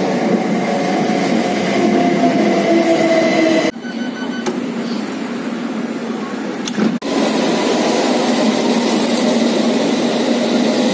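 A GWR train pulling into a station platform, its running noise carrying steady pitched tones that sag slightly as it slows. After an abrupt cut, a London Underground train stands at a platform with a few short beeps. After another cut, a Tube train runs loudly alongside the platform.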